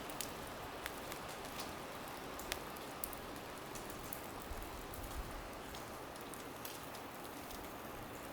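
Falling wet snow pattering like rain: a steady hiss with scattered small ticks at irregular moments.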